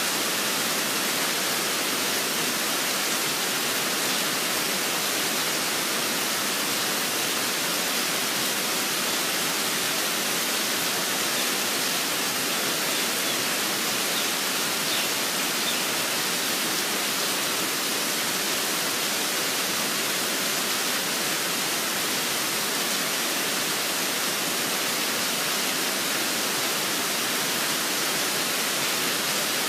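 Steady heavy rain, an even hiss that does not change.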